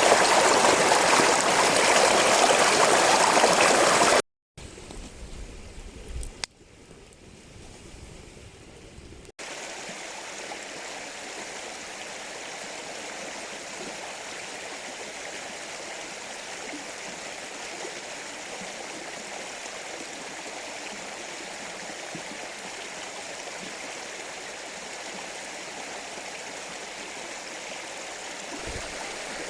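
Mountain stream rushing and gurgling over rocks, heard across several cuts. It is loud and close for about the first four seconds, then drops away briefly. After two quieter stretches, from about nine seconds on it flows at a steady, softer level.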